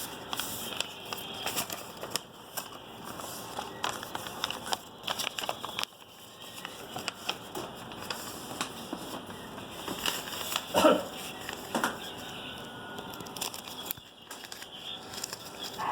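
Scenery sound modules on a model railroad layout playing recorded barnyard animals, birds and factory machinery together, a busy mix of small clicks and crackles with a brief louder call about eleven seconds in.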